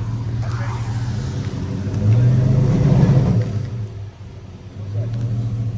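Truck engine running, revved up once for about a second and a half starting about two seconds in, then easing off, dipping briefly and settling back to a steady run.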